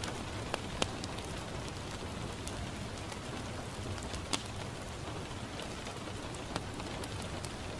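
Steady rain falling on a window pane, an even hiss with a few sharp ticks or pops standing out, the loudest a little past four seconds in.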